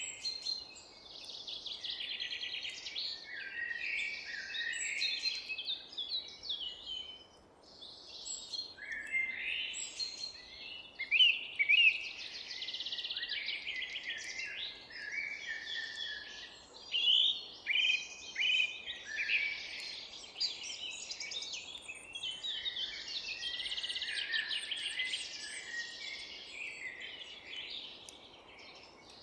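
Several songbirds singing and chirping at once in a dense, overlapping dawn-chorus-like mix of quick high chirps and trills, over a faint steady low background hiss.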